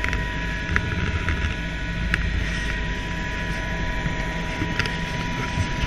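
Helicopter in flight: a steady drone of turbine engine and rotor with a rumble underneath and a steady high whine.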